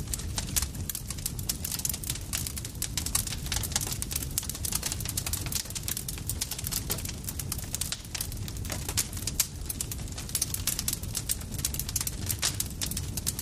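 Campfire crackling: dense, irregular snaps and pops of burning wood over a low steady rumble of the flames.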